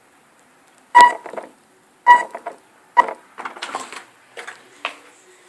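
Three loud, sharp knocks about a second apart, each with a brief ringing tone, followed by lighter clattering knocks close to the microphone.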